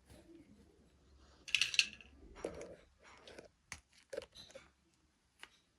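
Toy packaging being handled: crinkly rustling of wrapping, with a few sharp clicks of small hard plastic pieces in the second half.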